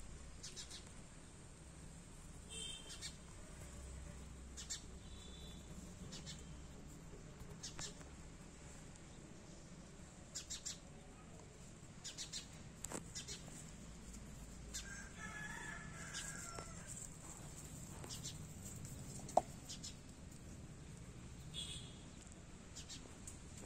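Faint outdoor ambience with short bird calls every few seconds, a longer run of calls a little past the middle, and one sharp click near the end.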